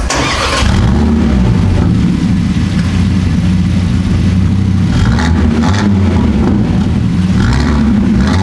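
KTM X-Bow GT-XR's turbocharged 2.5-litre five-cylinder engine starting with a sharp flare, then settling into a steady, loud idle.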